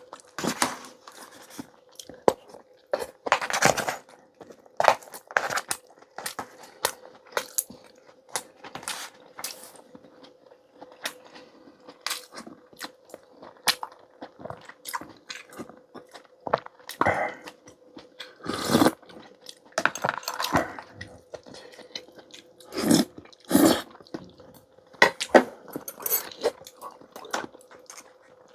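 Close-miked eating: a person chewing and biting, with irregular crunches, clicks and utensil taps, a few of them louder.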